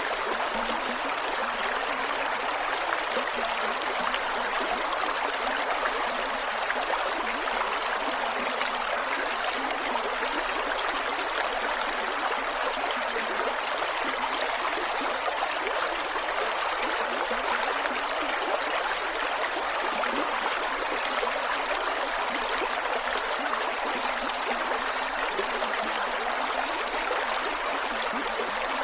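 Creek water flowing and gurgling over rocks, a steady rushing babble.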